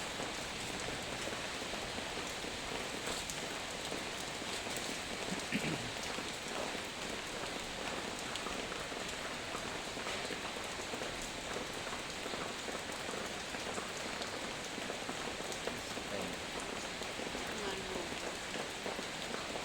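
Heavy rain falling steadily: a dense, even hiss made of countless small drop impacts.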